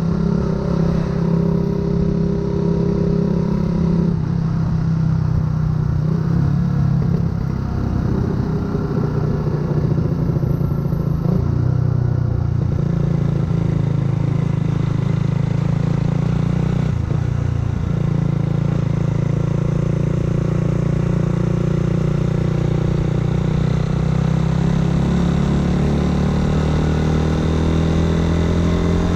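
Yamaha YZF-R125's 125 cc single-cylinder four-stroke engine running through a full aftermarket exhaust while riding. The engine pitch steps at about four seconds, breaks off for a moment near seventeen seconds as for a gear change, then climbs slowly as the bike gathers speed.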